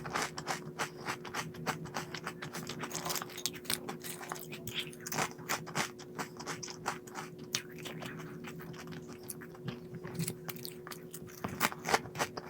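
Crunchy snack food being bitten and chewed, with many quick irregular crunches, over a faint steady hum.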